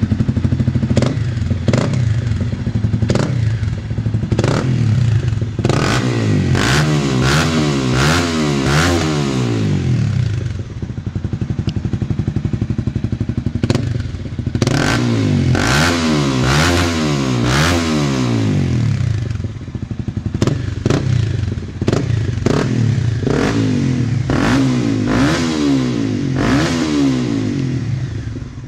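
Honda CBR250R single-cylinder engine through a full carbon aftermarket exhaust, idling and then blipped repeatedly in three spells of quick revs that rise and fall, dropping back to idle in between. Sharp cracks and clicks are scattered through it.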